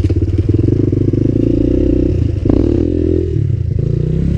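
Suzuki LTZ 250 quad's single-cylinder four-stroke engine running through a loud aftermarket DG Performance RCM II exhaust while being ridden, the engine note shifting up and down in pitch partway through.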